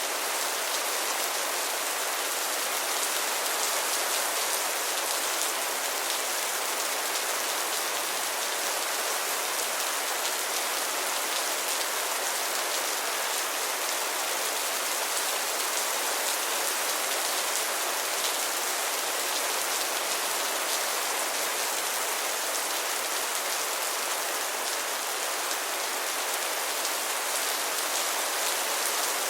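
Heavy rain falling steadily, a dense, even hiss of drops on a surface with fine patter in it.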